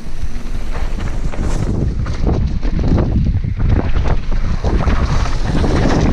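Wind buffeting an action camera's microphone during a fast downhill mountain-bike descent, a loud low rumble, with the bike rattling and knocking over rough trail.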